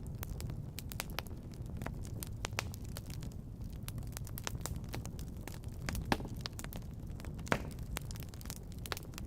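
Wood fire crackling with scattered sharp pops, two louder ones about six and seven and a half seconds in, over a steady low rumble.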